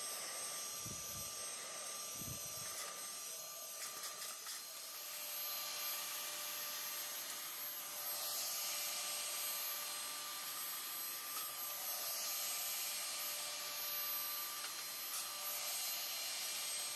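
A household electric appliance motor running steadily, with rushing air and a constant high whine; a few soft low thumps in the first couple of seconds.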